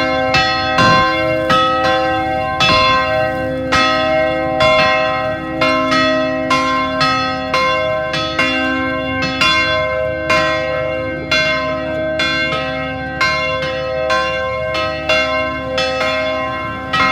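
Bells of a mobile carillon mounted on a Scania ringing: a steady run of strikes, roughly two a second, each note ringing on into the next.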